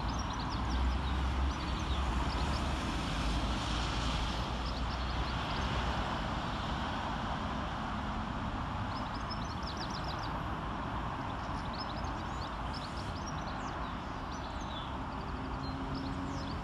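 ScotRail Class 320 electric multiple unit running into the station: a steady rumble and hiss of wheels on rail, heaviest in the first second or two.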